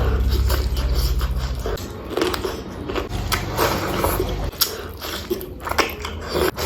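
Close-miked eating: irregular biting and chewing with wet clicks and crunches.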